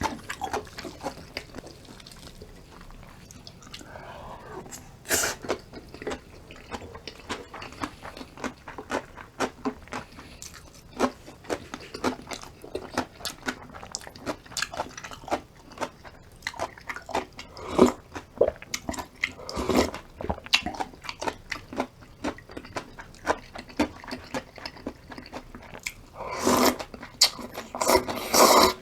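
A person chewing and crunching food close to the microphone, a steady run of wet clicks and crisp crunches, with louder crunching bouts about a quarter of the way in and near the end.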